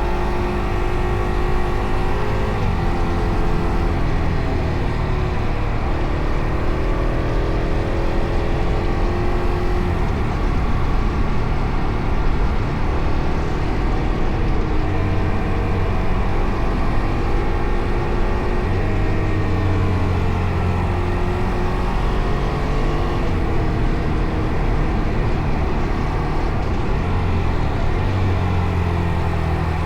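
Fantic Caballero Rally 500's single-cylinder engine running under way, its pitch rising and falling again and again with throttle and gear changes.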